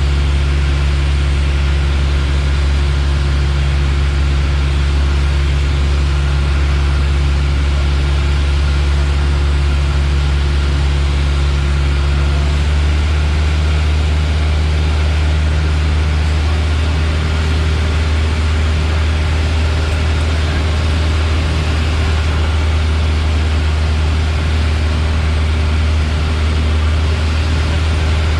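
Piper Warrior's four-cylinder piston engine and propeller droning steadily, heard inside the cabin as a loud low hum with a wash of noise; the engine note shifts slightly about halfway through.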